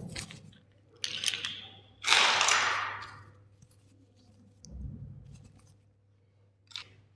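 Plastic toy being crushed: a run of crackles, then a loud crunch lasting about a second, a dull low thump, and a single sharp snap near the end.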